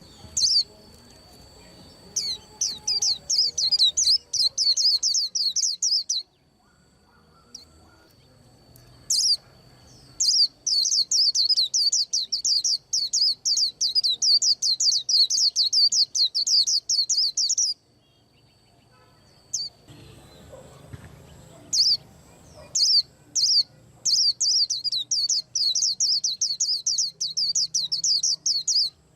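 White-eye singing: long bouts of very rapid, high twittering chirps, broken by short pauses twice.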